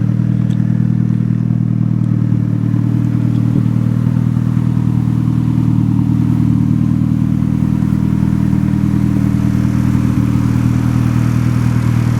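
Turbocharged SR20DET GTI-R four-cylinder engine in a Nissan 200SX idling steadily, heard from outside the car.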